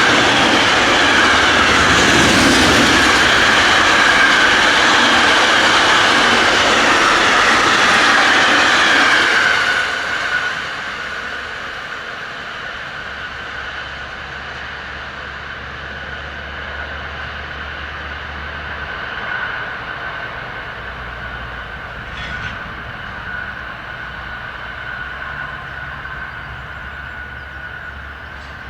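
A train passing at close range on the track, loud with the rush and rumble of its wheels until about ten seconds in, then dropping away as it recedes. A thin, steady high-pitched whine lingers after that.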